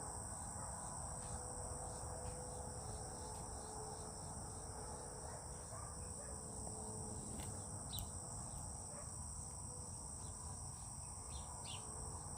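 Steady high-pitched insect chorus, with a few faint short bird chirps over it.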